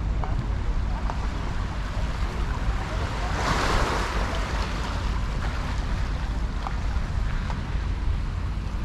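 Sea waves washing onto a beach, one wave breaking and washing in about three and a half seconds in, over a steady low rumble of wind on the microphone.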